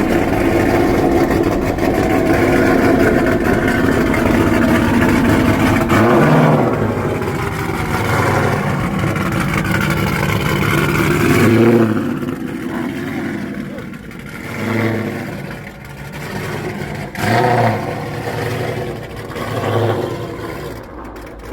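Dodge HEMI V8 muscle car exhaust running loud and being revved, with a revving pitch falling about six seconds in. After about twelve seconds the engine noise drops lower and short bits of voices come through.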